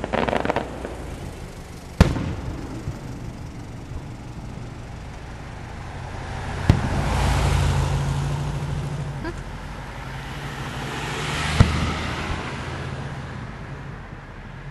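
Aerial firework shells bursting: a short crackle at the start, then three sharp booms a few seconds apart. Between them, cars pass on a road twice, each rising and fading away.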